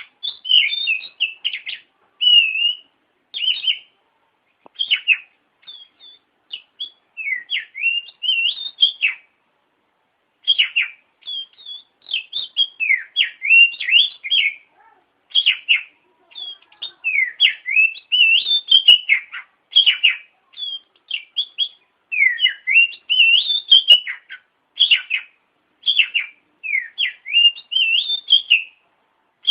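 Oriental magpie-robin (kacer) singing a varied run of clear whistled phrases and chirps, sweeping up and down, in short bursts with brief gaps between them.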